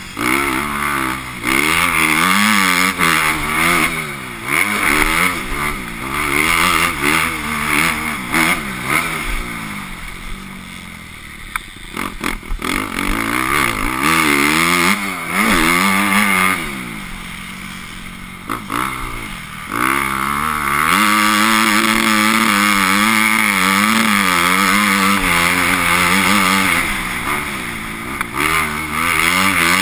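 Motocross bike engine revving hard and easing off again and again as it works the throttle and gears, dropping back twice to quieter running, then holding steady high revs for several seconds in the second half.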